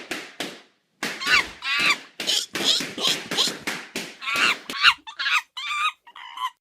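A voice vocalizing in quick short syllables without recognisable words, turning very high-pitched near the end.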